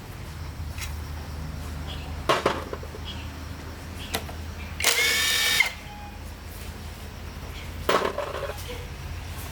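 A power tool's motor running steadily, with several short, sharp metal-on-metal scrapes and knocks. There is a brief, loud, ringing squeal about five seconds in, as of a tool biting into metal.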